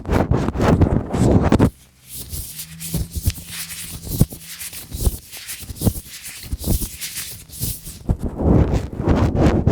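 Hands in latex gloves rubbing close to the microphone: heavy rubbing strokes for the first couple of seconds, then lighter rustling with scattered small clicks, then heavier rubbing again near the end.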